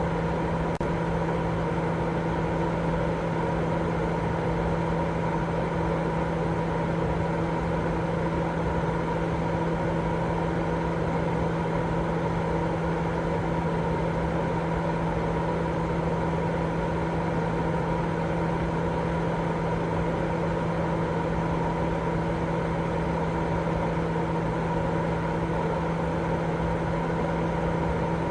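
Continuous white noise for baby sleep: a constant, unchanging low rushing hum with a few steady tones running through it.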